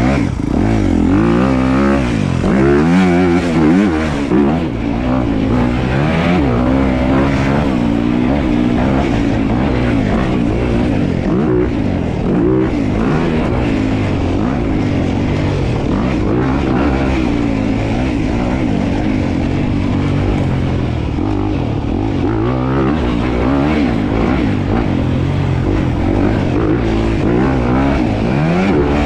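Dirt bike engine being ridden hard, its pitch rising and falling over and over as the rider revs it and shifts through the gears.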